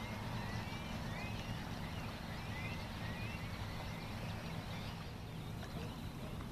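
Birds calling, a string of short chirps in the first few seconds with a few more near the end, over a steady low rumble.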